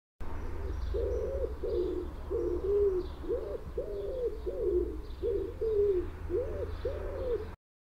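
Common wood pigeon cooing: a run of about a dozen short, low coos in even succession over a steady low rumble, cutting off suddenly near the end.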